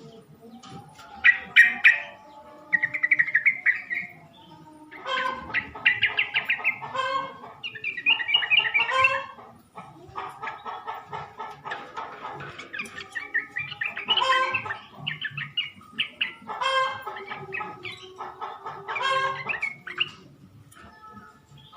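Yellow-vented bulbul (trucukan) song played as a lure call to draw a male's answer: a run of short, bubbly, chattering phrases, about a dozen, separated by brief pauses.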